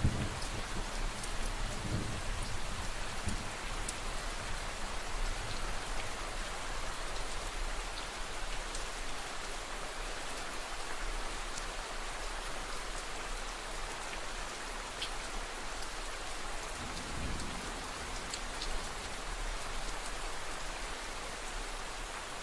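Steady rain falling, a dense hiss of drops on a surface with scattered separate drip ticks. A low rumble of thunder dies away in the first few seconds and returns faintly past the middle.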